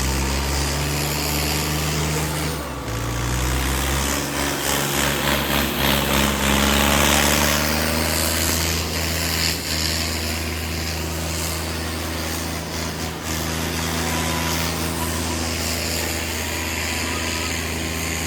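Tractor diesel engines running steadily. The pitch shifts about three seconds in, and the sound grows louder and harsher for a few seconds after that.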